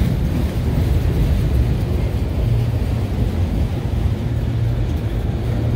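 Freight train cars, including empty and loaded auto racks, rolling past: a steady low rumble of steel wheels on the rails.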